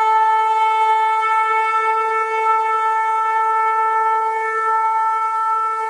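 Shofar sounding one long, steady held note.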